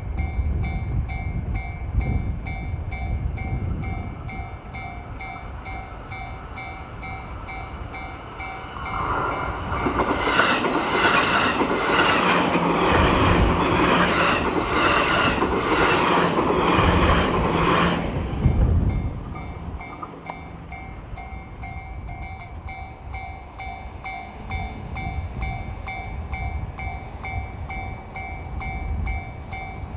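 Level-crossing alarm ringing in a fast repeating ding. A stainless-steel electric train rushes past close by from about nine to eighteen seconds in, its wheels clicking rhythmically over the rail joints.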